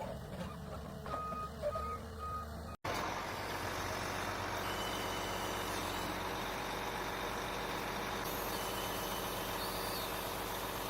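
Three short back-up alarm beeps from heavy forestry machinery, then after an abrupt change about three seconds in, the steady running of a heavy machine's engine.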